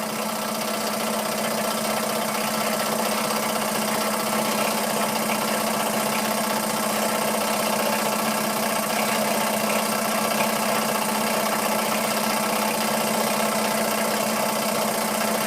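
Small Stuart ST model engine running steadily on compressed air, turning its belt-and-pulley drive to a small dynamo, with a constant hum.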